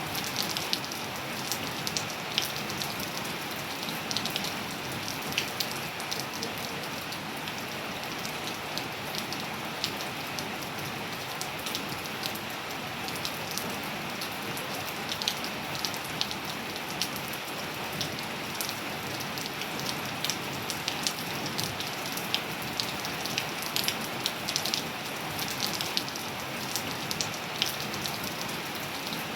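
Steady rain with many separate drops ticking and pattering on hard surfaces over a constant hiss.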